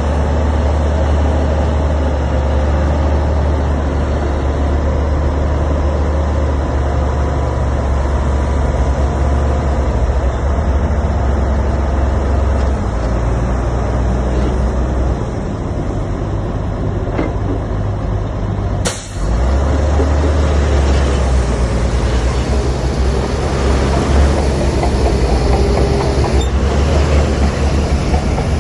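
Heavy diesel earthmoving machinery (bulldozer and dump trucks) running under load as a deep, steady drone. About two-thirds of the way in there is one sudden sharp break, after which the running sound returns with more hiss.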